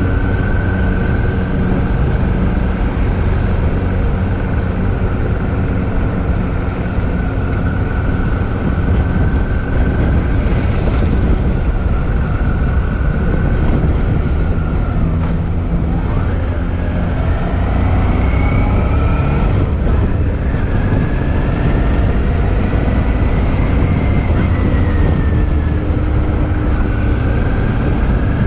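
Motorcycle riding along with the engine running steadily and heavy wind rush on the microphone. A thin high whistling tone wavers and glides up and down in pitch through the second half.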